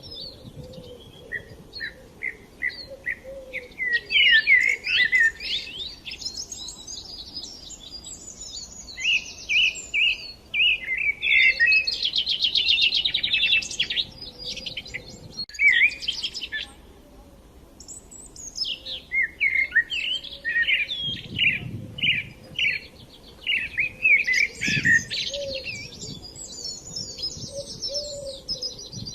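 Small songbirds chirping and singing in bursts of fast trills and twittering phrases, with short lulls between the bursts.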